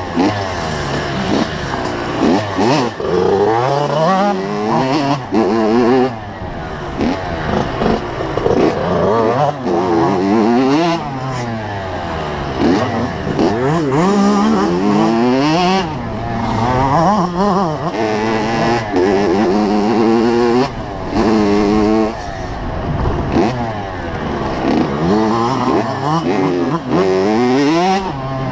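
85cc two-stroke motocross bike engine revving hard while riding. The pitch climbs and drops over and over as the throttle is opened and shut and gears change, with brief breaks off the throttle.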